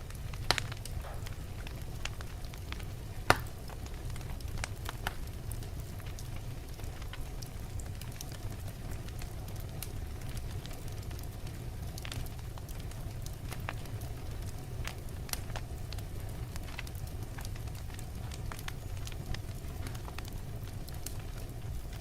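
Wood fire burning in a fireplace: a low steady rumble with scattered crackles and pops, two sharper pops about half a second and three and a half seconds in.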